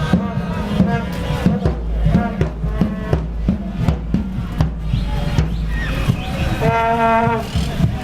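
Football fans' street celebration: drums beating a steady rhythm of about two strikes a second, with brass horns playing and one long horn blast near the end.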